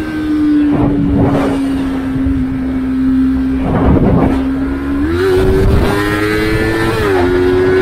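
Yamaha MT-25's 249 cc parallel-twin engine running at high revs under throttle, heard on board with wind buffeting the microphone. Its pitch holds steady, steps up about five seconds in, and shifts again near the end.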